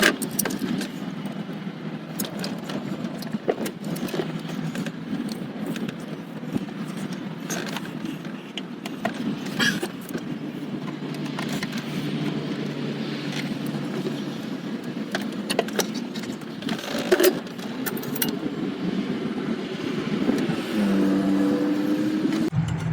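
Hand work on an engine intake as rubber vacuum lines are pushed back onto their fittings: scattered sharp clicks and small knocks, the loudest about two thirds of the way in, over a steady low hum.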